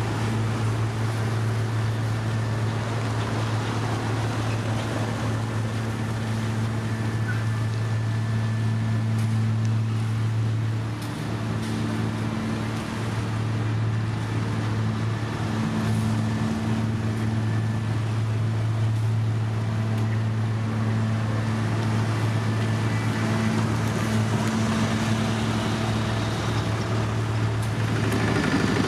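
Diesel engine of heavy road-construction machinery running steadily at a constant speed, a deep even hum over a noisy rumble. The hum drops out near the end.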